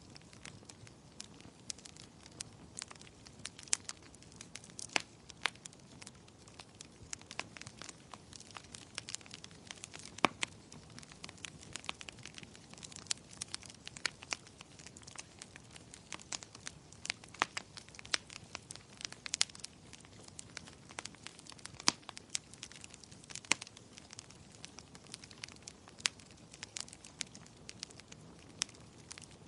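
Wood fire crackling, with irregular sharp pops and snaps, several a second at the busiest moments, over a soft steady hiss.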